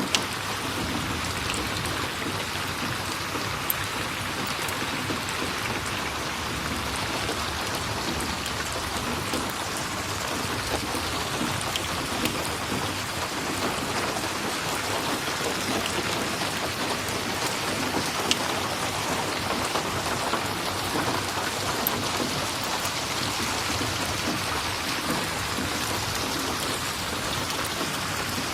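Steady heavy rainfall, an even hiss of drops on a surface, with a few sharp ticks scattered through it.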